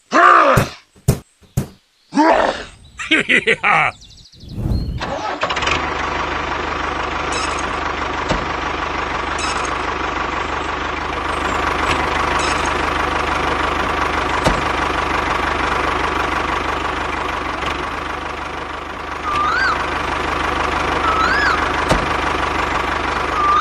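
A few short voice-like sounds, then an engine or motor starts about five seconds in and runs steadily. Near the end there are three short squeaky chirps.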